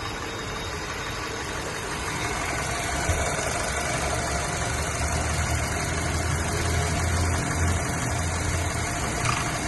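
Car engine idling steadily, getting somewhat louder about two seconds in. This is an engine being diagnosed for a misfire and rough idle.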